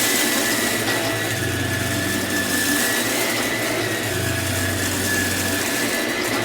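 Samsung CycloneForce upright vacuum running steadily with a high whine, and a lower hum that comes and goes about every three seconds.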